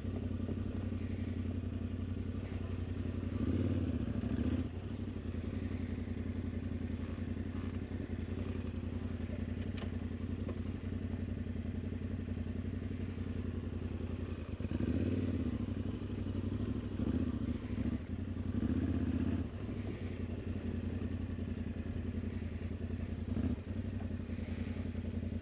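Yamaha Ténéré 700's parallel-twin engine running steadily at low revs, swelling briefly a few times.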